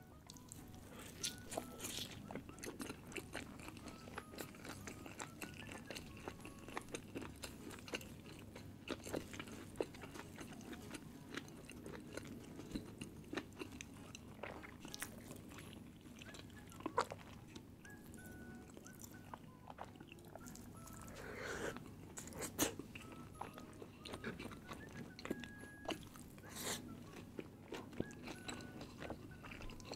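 Close-miked chewing and biting of food, with many short, irregular mouth clicks.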